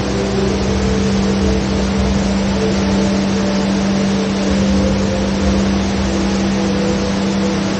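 The HSBC Rain Vortex indoor waterfall: a steady, loud rush of water pouring down into its pool, with a steady low hum underneath.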